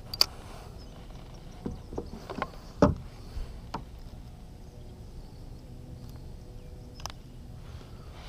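Scattered clicks and knocks in a kayak while a deeply hooked fish is worked free with pliers, clustered in the first four seconds with the loudest knock about three seconds in and one more near the end.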